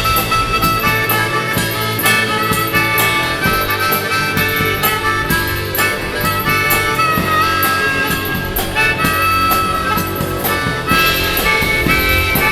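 Live band playing an instrumental passage, with drums and bass under a lead line of held, bending notes.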